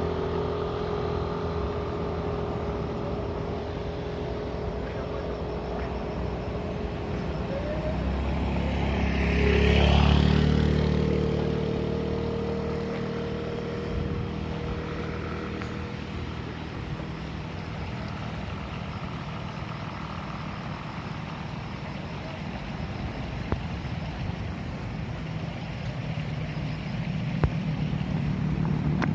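Vehicle engines running steadily. About ten seconds in, one vehicle passes close by, its sound swelling and then fading.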